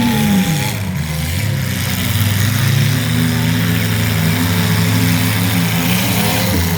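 Engines of several mini pickup trucks running and revving during a demolition derby heat. One engine's pitch drops away in the first second.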